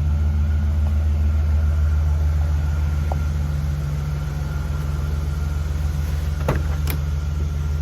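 1986 Cadillac Fleetwood hearse's engine idling steadily with a low, even rumble. Near the end there are two short clicks.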